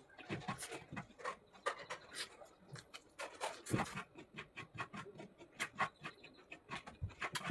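Close-up chewing and lip-smacking of a person eating pork: a quick, irregular run of wet clicks and smacks.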